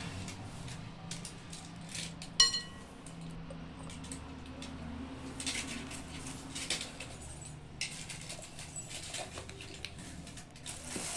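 A spoon scraping and tapping against a bowl while ingredients are spooned in, with one sharp ringing clink about two and a half seconds in and bursts of scraping later on.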